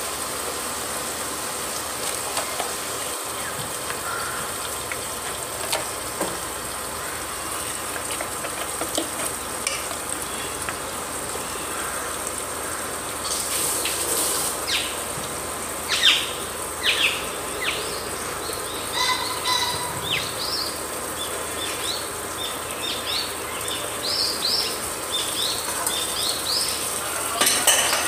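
Raw chicken pieces sizzling in hot oil in a steel pot, a steady frying hiss, with a spatula stirring at the start. From about halfway in, short sharp crackles come often over the hiss.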